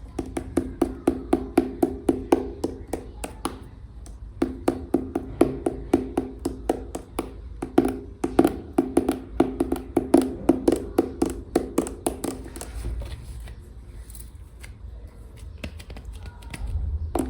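Long fingernails tapping quickly on a hollow clay container, about four taps a second, each with a short hollow ring, in runs broken by brief pauses. The tapping gives way to softer, scattered handling sounds for a few seconds before picking up again at the end.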